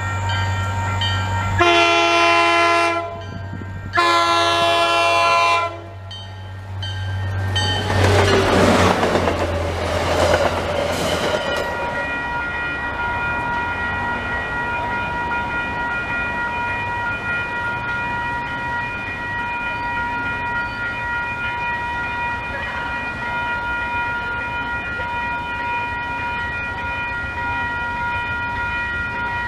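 Commuter-rail diesel locomotive sounding two long horn blasts over a low engine rumble, then the train rushing past with wheel and car noise. After it passes, a steady high tone carries on.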